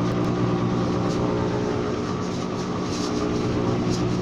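Steady electrical machine hum from a running appliance, with a few faint light clicks over it.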